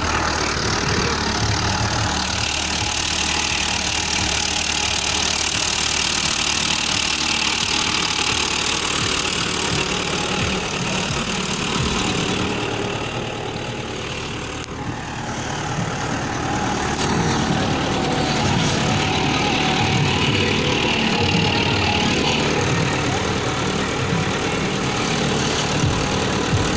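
Tractor engine running steadily. It quietens for a few seconds about halfway through, then comes back up.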